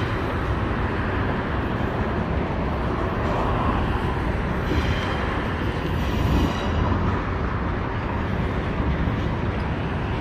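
CSX freight train's cars rolling past steadily on curved track, with a few faint, brief high squeals of wheel flanges rubbing against the rail.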